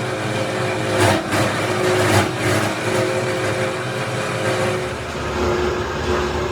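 Tire factory machinery running with a steady hum and two short louder surges about one and two seconds in.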